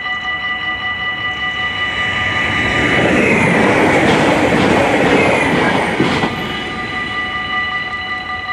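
Level-crossing warning bell ringing steadily while a passenger train passes through the crossing. The train's rumble swells from about two and a half seconds in, carries a falling whine as it goes by, and cuts off about six seconds in, leaving the bell ringing on its own.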